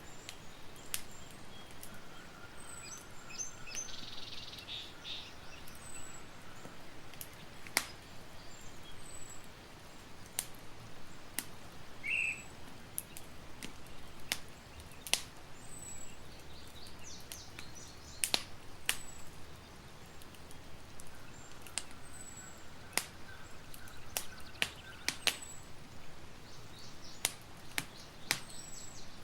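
Campfire crackling, with sharp irregular pops over a steady hiss, while birds chirp in the background with short, repeated high notes.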